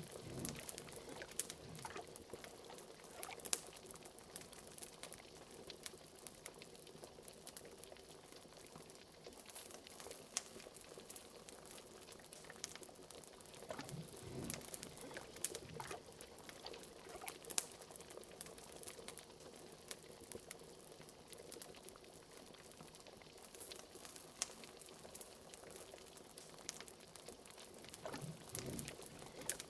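Bubbling liquid in a cauldron, a steady simmer with a few deeper bubbles about halfway through and near the end, over frequent sharp crackles from a fire.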